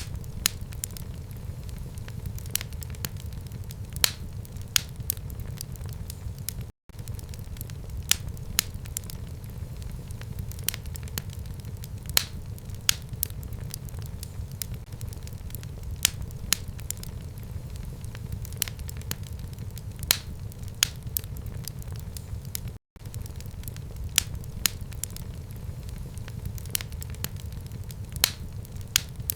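Fire burning in a fireplace: a steady low rumble of the flames with frequent sharp, irregular crackles and pops. The sound cuts out for an instant twice, about seven and twenty-three seconds in.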